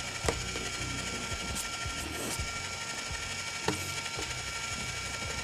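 Electric ice cream maker's motor running steadily, its gears grinding as it turns the canister in the bucket of salt and snow, with a couple of sharp knocks.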